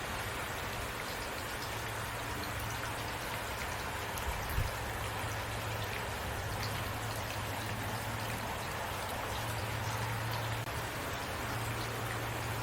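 Heavy rain falling steadily, a dense hiss with many single drops ticking on surfaces and a low steady rumble underneath. A single dull thump about four and a half seconds in.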